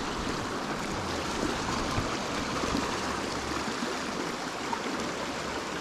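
Small creek running over rocks: a steady rushing and trickling of water.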